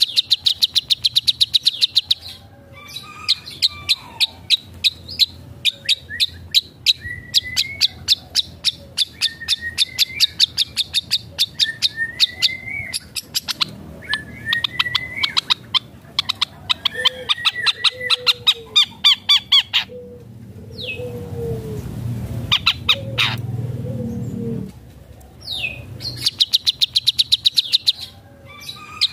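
Long-tailed shrike (cendet) in full song, mixing fast rattling chatters of about ten notes a second with short rising whistles, in a song full of mimicked phrases of other birds. Past the middle it switches for several seconds to lower warbled notes over a low rumble, then goes back to rattling near the end.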